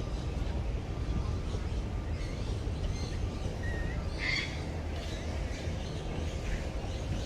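A few short bird calls over a steady low background rumble, the loudest a brief chirp about four seconds in.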